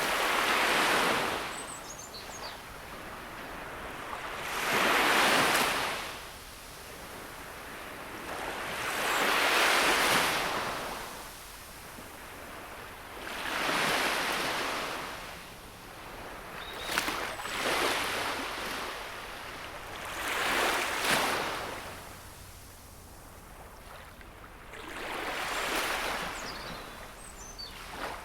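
Gentle sea waves breaking and washing up the shore, each wave swelling and fading, about one every four seconds.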